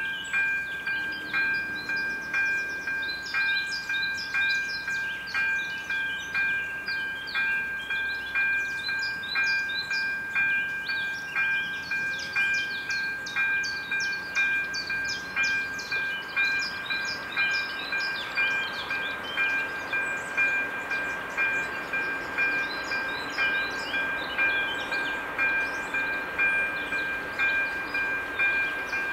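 Electric warning bell of an AŽD 97 level-crossing signal ringing in a steady, even rhythm, a little under two strikes a second, warning of an approaching train. A steady rushing noise builds under it from about halfway through.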